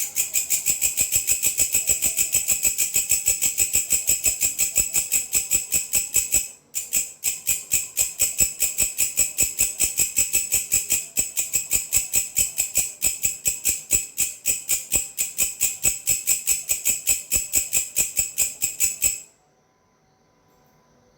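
A belalang, a grasshopper-type insect, calling in a fast, even train of sharp high-pitched pulses. The train breaks off for a moment about six and a half seconds in, then resumes and stops abruptly about nineteen seconds in.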